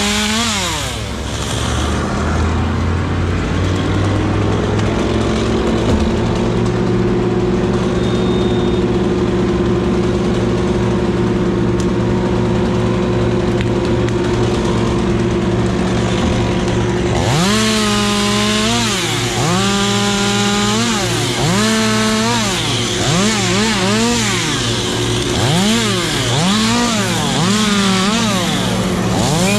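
Chainsaw running at a steady high speed for about the first half. From just past the middle it is revved up and down over and over, about once a second, as it cuts wood.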